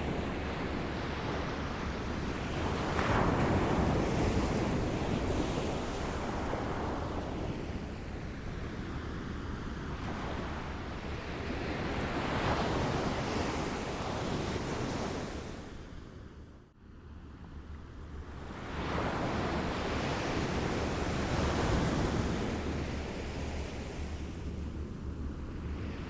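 Small waves lapping on a shore, each wash swelling and ebbing about every nine seconds, with a brief sharp drop in level about two-thirds of the way through.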